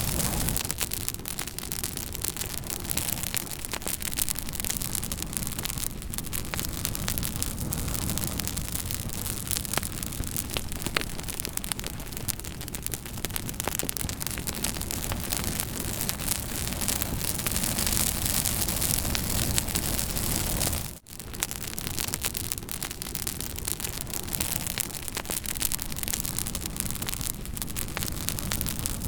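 Campfire crackling, with many small sharp pops over a steady hiss. The sound drops out for an instant about two-thirds of the way through.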